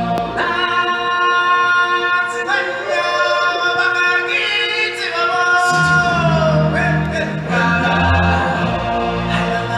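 Choir singing long held notes in a stage show's music. The low bass accompaniment drops out just after the start and comes back in about halfway through.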